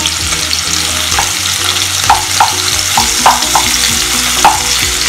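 Chopped onions sizzling in hot coconut oil in a pan as they are sautéed, with a spatula knocking and scraping against the pan several times as they are stirred.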